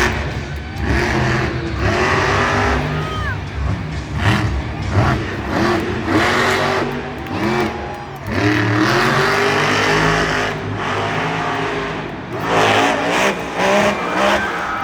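Monster truck engines revving hard again and again, the pitch climbing and dropping with each burst of throttle.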